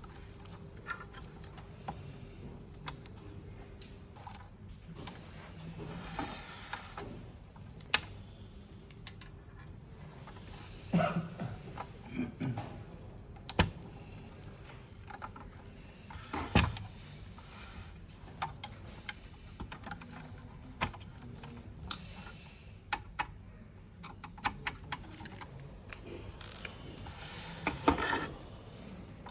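Irregular clicks, knocks and brief scraping of parts and tools being handled while a blood gas analyzer is taken apart, with a few louder knocks scattered through.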